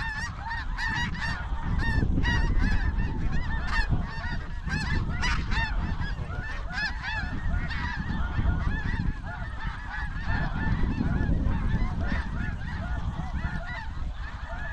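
A large flock of snow geese calling, a dense chorus of many overlapping honks that never lets up, over a steady low rumble.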